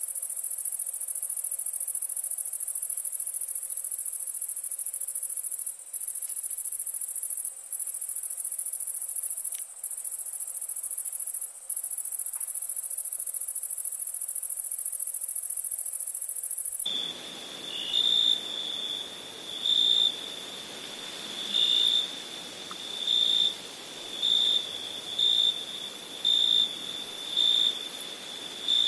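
Crickets calling at night: first a continuous, very high-pitched trill broken by a few brief gaps. About two-thirds of the way in, the recording changes to a lower cricket chirp repeating in short pulses about once a second.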